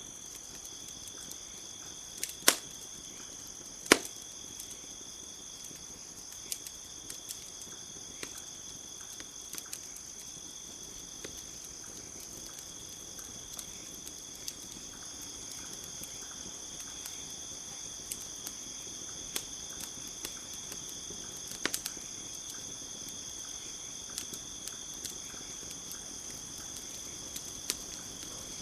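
Wood campfire crackling, with scattered small ticks and a few loud sharp pops, twice in the first few seconds and once again past the middle. Behind it crickets chirr in a steady high drone.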